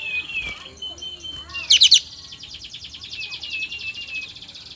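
Kapas tembak songbird singing: a fast, buzzing trill with short warbled whistles, broken by a loud burst of sharp, quick notes a little under two seconds in.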